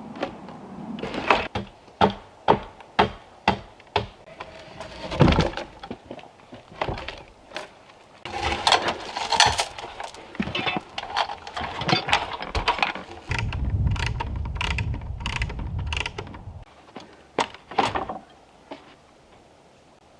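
Building work: a run of sharp knocks, about two a second at first, then irregular clattering knocks. A low rumble lasts about three seconds in the latter part.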